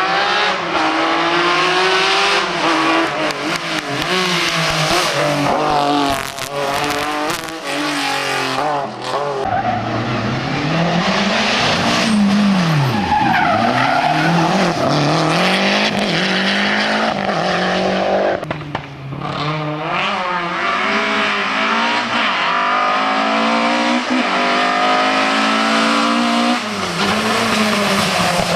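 Historic rally cars at speed on a closed special stage. The engines rev up through the gears again and again, with the pitch rising and falling. About 13 seconds in, a car slows right down for a corner, with some tyre noise, then accelerates away.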